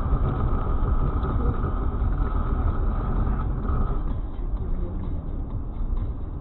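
Car driving noise as picked up by a dash cam: a steady low rumble, with a steady high tone held until about four seconds in, then stopping.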